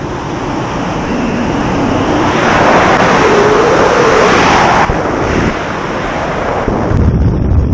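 Loud rushing wind on the microphone, swelling to a peak and then cutting off suddenly about five seconds in.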